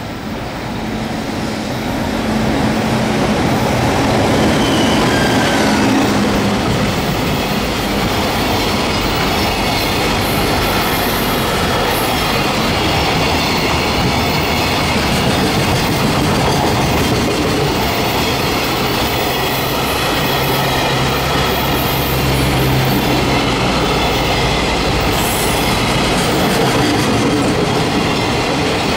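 Container freight train hauled by an EF210 electric locomotive passing by: the sound builds over the first few seconds as the locomotive arrives, then holds as a steady run of wagon wheels on the rails.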